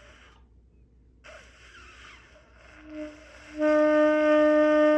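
A wind instrument sounding its first notes: a short, quiet note about three seconds in, then one loud, steady held note that carries on past the end.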